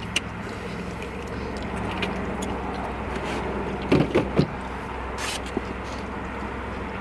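Chewing and lip-smacking while eating chicken wings, with scattered wet clicks and a short cluster of louder mouth sounds about four seconds in, over a steady low hum.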